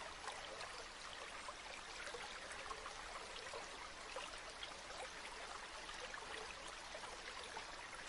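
Gentle river water flowing steadily, a faint, even babble of many small trickles and splashes.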